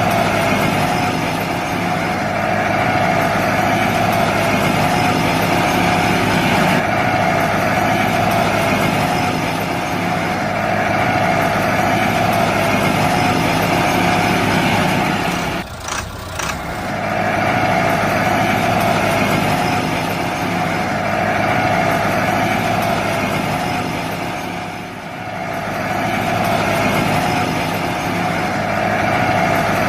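Small motor running steadily with a constant whine, briefly cutting out about halfway through.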